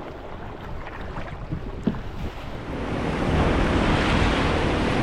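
Sea water and wind on the microphone: water lapping with a few small sharp knocks, then from about three seconds in a louder, steady rush of surf.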